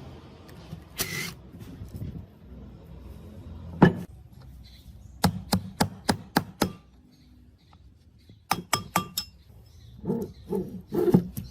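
Hand tools and small metal parts clinking and knocking as they are handled and set down, in irregular runs of sharp clicks.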